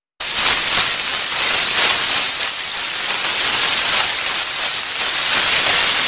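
Tree leaves rustling: a steady, hissy rustle that starts suddenly.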